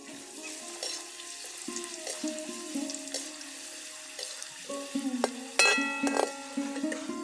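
Oil sizzling steadily as small round wafers fry in a metal kadhai, with a perforated ladle stirring them. About five and a half seconds in, the ladle clatters and scrapes against the pan.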